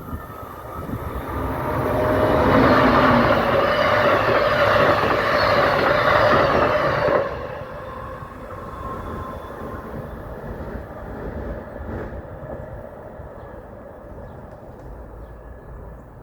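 A train passing close by on the main line, building up and running loud for about five seconds with a steady whine over the rumble. It drops away abruptly to a quieter rumble partway through.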